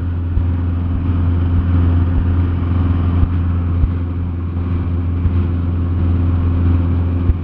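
Cessna 172SP's four-cylinder Lycoming engine and propeller droning steadily in flight, heard inside the cabin as a loud, even low hum, with a few faint knocks.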